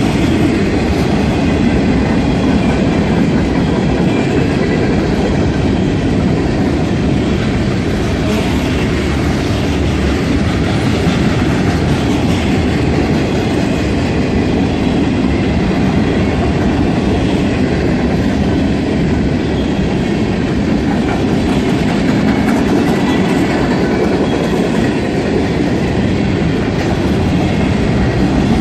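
A train's cars rolling past, with steady wheel-on-rail noise throughout.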